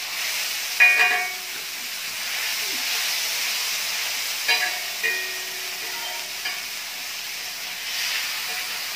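Chapli kabab sizzling in oil on a flat griddle as steel spatulas press and scrape it, with short metallic scrapes and clinks of the spatulas on the griddle about a second in and again several times near the middle.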